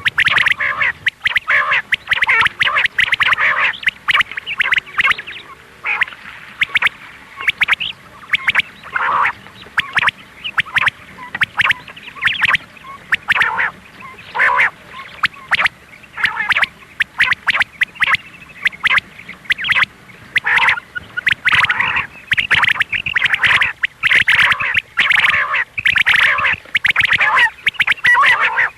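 Quail (batair) calling: rapid, repeated runs of short, sharp notes in bursts, with brief pauses between them.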